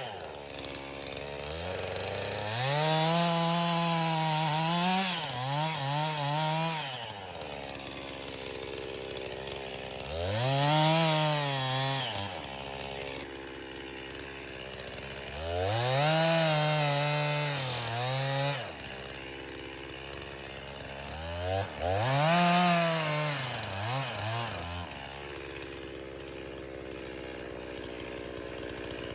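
Two-stroke chainsaw idling and revving up to full throttle four times, each burst lasting a few seconds. The pitch wavers and dips while it is held, then drops back to idle.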